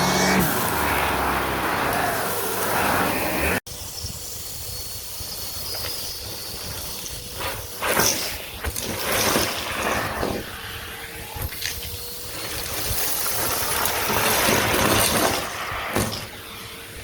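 Vacuum cleaner running: a loud, steady rush of motor and airflow for the first three and a half seconds, cut off abruptly. After the cut comes quieter, uneven noise broken by scattered knocks.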